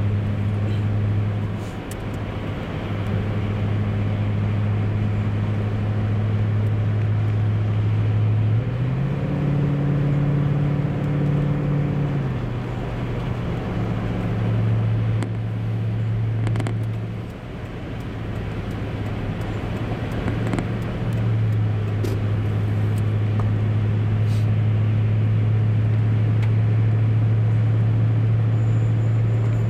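Car engine and road noise heard from inside the cabin: a steady low drone that rises in pitch for about three seconds around nine seconds in, then settles back.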